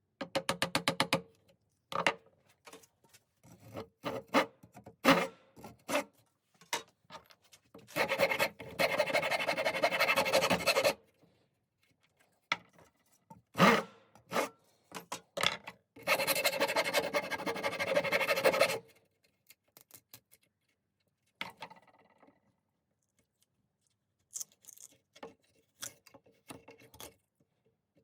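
A rasp working a wooden hatchet handle: a quick run of short strokes near the start, then two long spells of continuous rasping about a third and two thirds of the way in, with scattered knocks and scrapes between.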